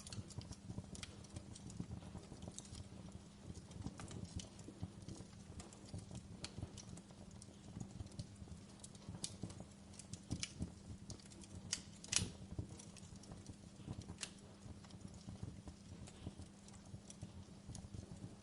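Wood fire in a fireplace crackling, with irregular pops and snaps and one louder snap about two-thirds of the way through, over a steady low rumble.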